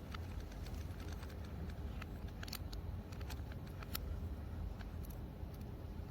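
Irregular light clicks and taps over a steady low rumble, from small parts being handled during a parts replacement.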